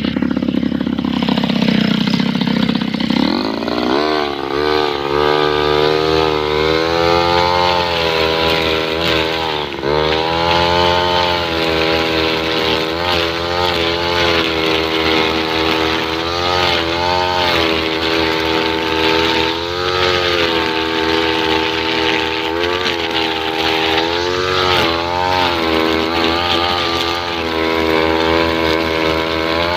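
Two-stroke 328 brush cutter engine with a string trimmer head, rising from low revs to high speed about four seconds in, then running steadily at speed with a few brief dips in revs.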